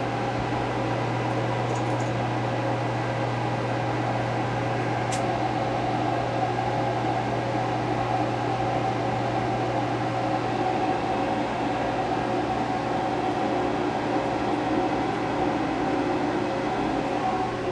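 Steady hum of a Fanuc Robodrill CNC mill running a cutting job, with a low drone and several steady higher tones that shift slightly in pitch over time.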